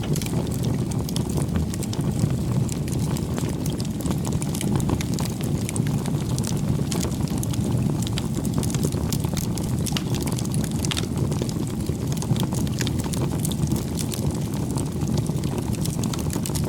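Wood bonfire burning steadily: a constant low rush with frequent small, irregular crackles and pops from the burning wood.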